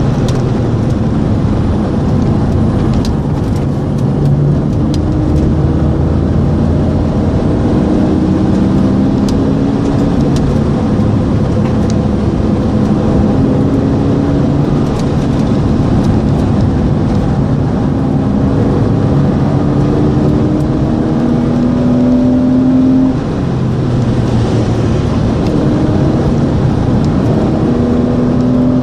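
Porsche Boxster 2.7's flat-six engine heard from on board while driving, its pitch climbing repeatedly as it accelerates, under a steady, loud rush of wind and road noise. The loudness dips briefly near the end.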